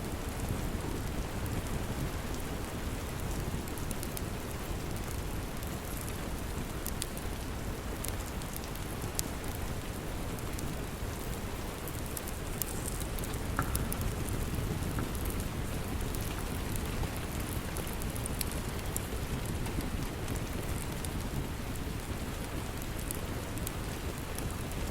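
Steady rain, with scattered small crackles from a wood fire in a fireplace.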